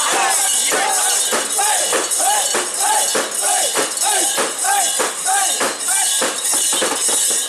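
Mikoshi bearers chanting together in a short rising-and-falling call, about twice a second, over the constant rhythmic jingling and clinking of the portable shrine's metal fittings.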